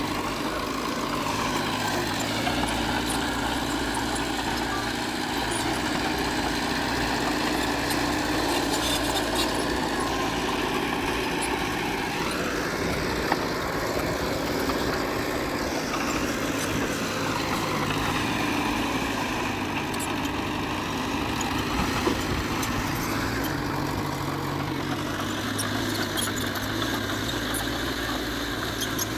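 Heavy diesel engine of earthmoving machinery running steadily under load, its pitch rising and falling a few times as the throttle and load change.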